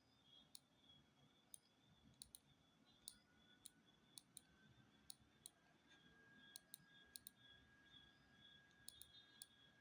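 Computer mouse clicking, faint and irregular, about seventeen single clicks and quick pairs, as points are placed one by one with a drawing selection tool.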